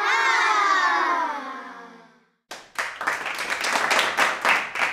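Intro sound effects: a wavering chime-like tone sliding down in pitch and fading out, then, about two and a half seconds in, a burst of applause with clapping.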